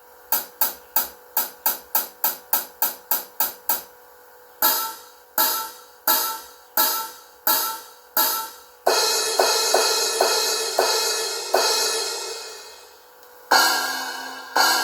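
Drum-kit cymbals and hi-hat played back over speakers: a quick run of about four strikes a second, then slower single hits, then a long ringing cymbal wash and fresh crashes near the end, with very little bass.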